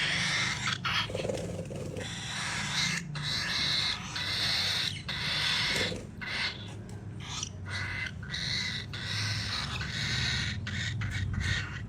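Pet parrot calling: a long run of harsh, screechy calls, each lasting a fraction of a second to about a second, with short breaks between them, over a steady low hum.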